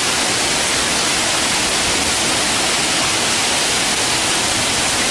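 Heavy thunderstorm rain falling in a steady, loud hiss.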